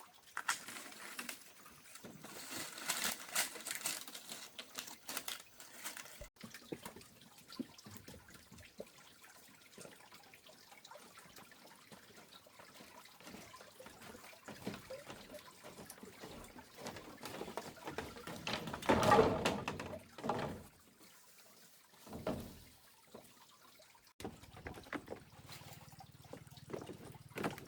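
Water splashing and trickling in irregular bursts, with a louder splash about two-thirds of the way through.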